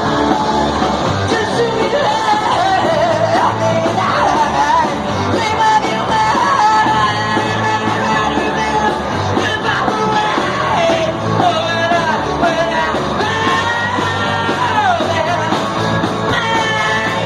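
Live garage rock band playing a loud fuzzy song with drums and bass, a singer belting and shouting over it. The song ends abruptly at the end.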